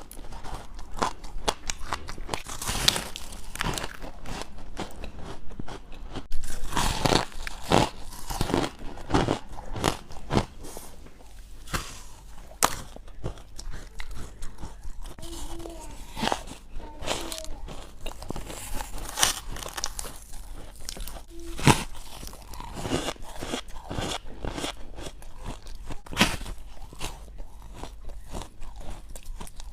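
Close-up crunching and chewing of frosty ice: irregular sharp crunches and bites follow one another with short gaps, with some louder crunches about six seconds in and again after twenty seconds.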